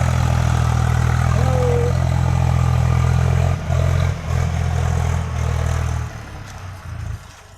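Tractor engine running with a steady low drone; it breaks off briefly twice around the middle and then dies away over the last second or so.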